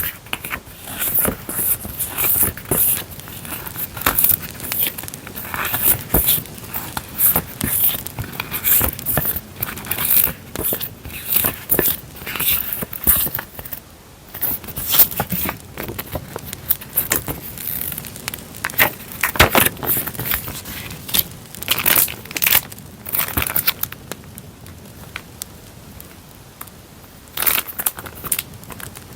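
Paper and plastic packaging crinkling and rustling as journaling stickers and papers are handled and unwrapped, over an added campfire crackling track. The handling goes quieter for a few seconds near the end.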